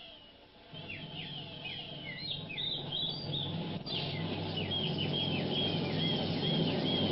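Bird calls: a quick run of varied chirps, then a string of short falling whistles about twice a second. Under them a low steady drone sets in about a second in and grows louder.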